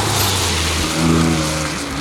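BMW M2 Competition's twin-turbo inline-six engine pulling hard under acceleration, its note rising, with a brief break near the end.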